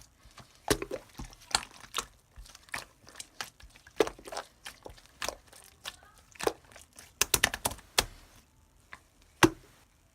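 Slime being squeezed and pressed by hand, giving irregular sharp clicks and crackling pops in quick clusters that thin out near the end, with one last loud pop.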